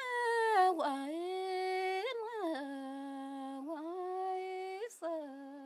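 A woman singing slowly in long held notes, close to humming, her pitch gliding smoothly between about five sustained notes.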